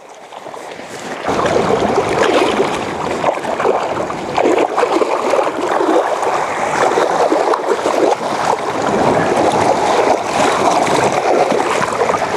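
Water splashing and sloshing against the kayak, irregular and continuous, rising sharply about a second in.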